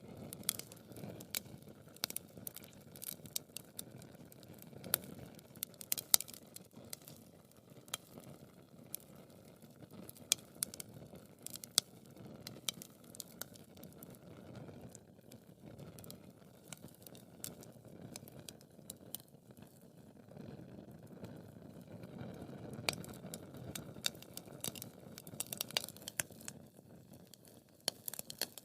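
Wood fire in a fireplace crackling, with irregular sharp pops and snaps over a low, steady rush of flames. The loudest pops come about six and twelve seconds in.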